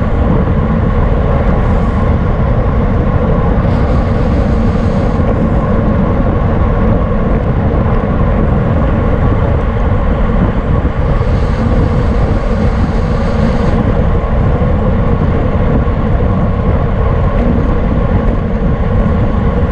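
Loud, steady wind rush buffeting a bike-mounted camera's microphone while riding at race speed, heaviest in the low end. A higher hiss rises briefly twice.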